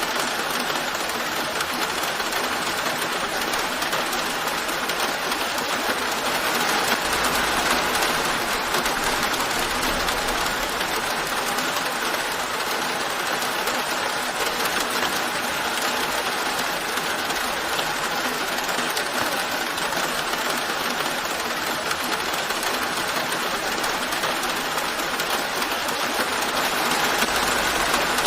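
Steady rain falling, an even hiss with no breaks, swelling slightly about seven seconds in and again near the end.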